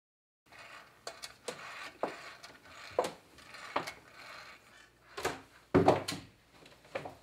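A run of irregular knocks, clicks and clatters of handled hard objects, starting after a moment of dead silence, with the loudest knocks about five and six seconds in.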